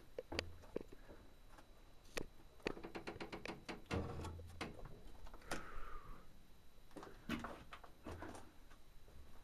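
Scattered knocks, scuffs and clicks of someone moving over loose rock, with a quick run of clicks about three seconds in and a few dull thumps.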